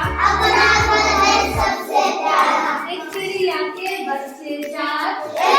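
Children singing a Hindi rhyme. A steady low hum underneath stops a little under two seconds in.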